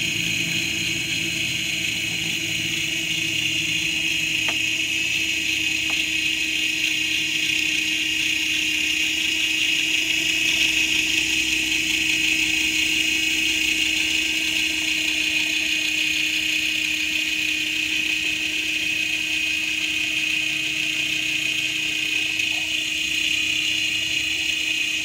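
Toy RC mini helicopter's small electric rotor motors spinning the blades, a steady high whine.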